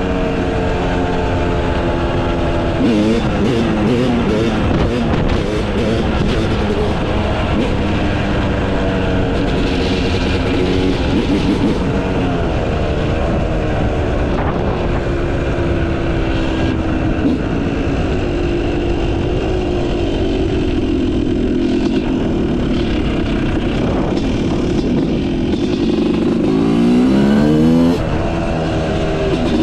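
Yamaha YZ250 two-stroke motocross engine with a Pro Circuit exhaust, pulling through the gears under riding load: revs rise and drop repeatedly. It holds a steadier pitch through much of the second half, then picks up with several quick rising revs near the end.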